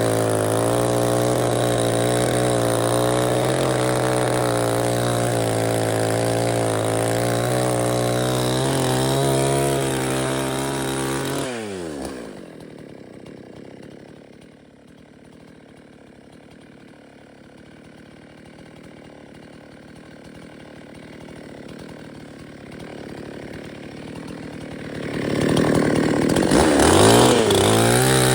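Chainsaw engine running at high revs, then its throttle released about twelve seconds in so the pitch falls away to a low idle. Near the end it is revved back up steeply to full speed.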